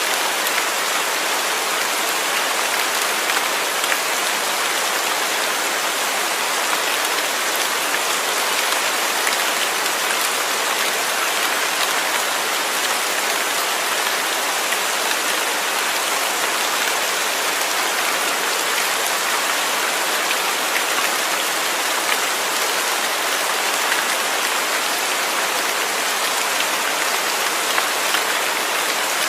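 Steady rain falling and pattering on a surface, a dense even hiss with scattered drop ticks.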